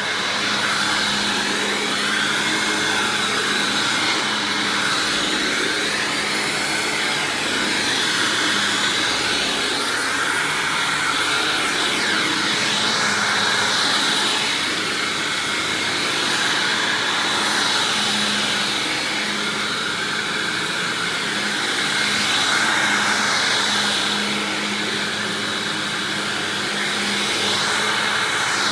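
Hoover Windtunnel self-propelled upright vacuum running on its swapped-in Maytag-era motor: a steady whooshing whine with a low hum, its level rising and falling gently every few seconds.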